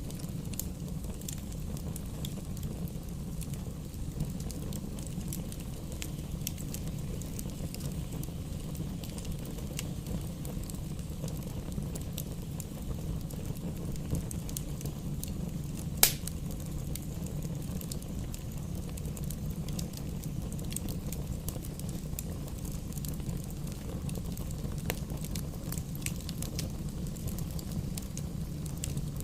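Campfire burning: a steady low rumble of the flames with scattered small crackles, and one loud pop about halfway through.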